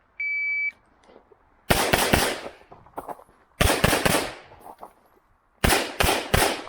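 An electronic shot timer gives its half-second start beep. Then an HPS/STI 2011 pistol in .40 S&W fires in three quick strings of about three to four shots, each string about a second and a half apart.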